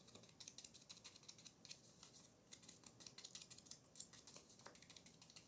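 Faint, rapid light ticks and scratches of paper being handled and worked, as in inking or trimming paper label edges.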